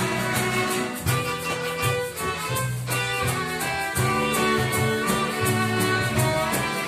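Instrumental band music with a steady bass line and a regular beat.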